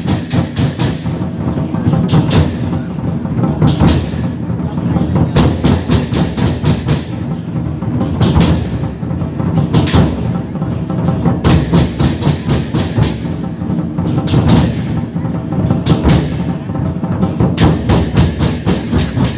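Vietnamese lion dance drum ensemble playing a fast, dense beat: rapid strokes on the big drum, with cymbal crashes ringing over it throughout.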